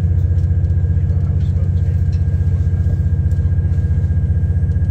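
A passenger train heard from inside the carriage as it moves through a station: a loud, steady low drone from its diesel engine, with a faint steady high whine above it.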